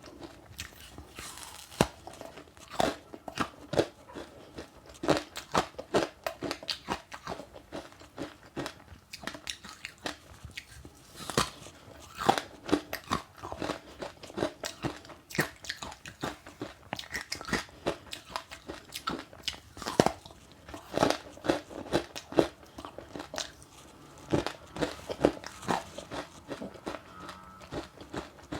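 Close-up chewing and crunching of passionfruit eaten with sesame seeds: irregular crisp cracks and crackles, several a second, as the seeds break between the teeth.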